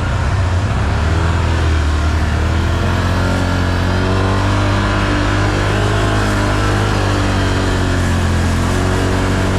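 ATV engine running steadily under throttle, its pitch rising and falling a little as it is ridden along a muddy trail.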